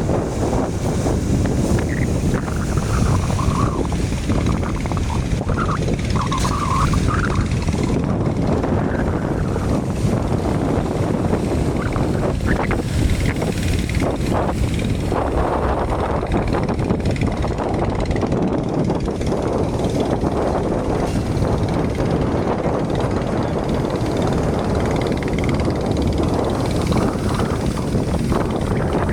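Steady drone of many fishing motorboat engines running as the boats head out to sea, with wind buffeting the microphone.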